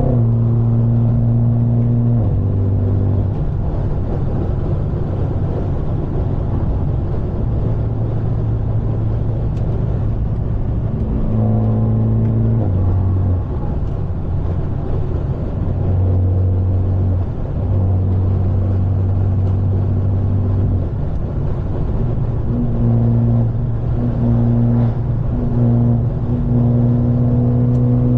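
Straight-piped, catless BMW 530 running while cruising, its exhaust drone holding steady and then stepping up or down in pitch several times as the revs change.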